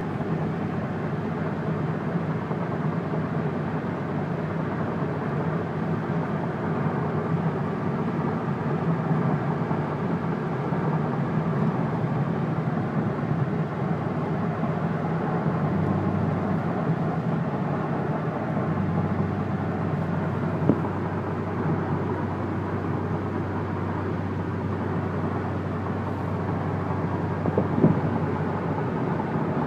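Corvette C6 Z06's 7.0-litre LS7 V8 cruising steadily at highway speed, around 2,000 rpm, heard from inside the cabin through a Borla ATAK exhaust with stock headers and cats, mixed with tyre and road noise. A low steady hum that the owner presents as free of drone, with a deeper tone joining about two thirds of the way in and two short clicks near the end.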